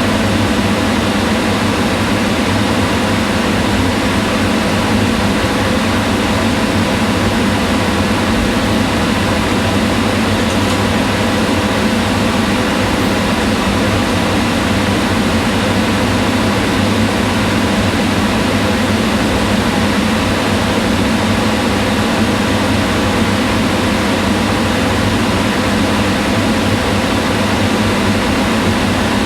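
Kitchen range hood exhaust fan running steadily: a constant hum and whir of fan motor and moving air, with a faint steady tone through it.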